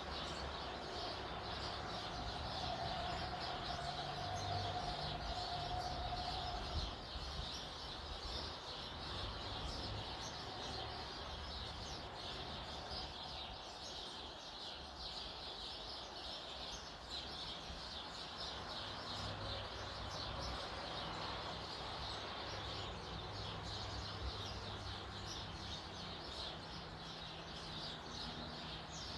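A crowd of small songbirds chirping rapidly and without pause over a low steady rumble, with a steady hum through the first several seconds.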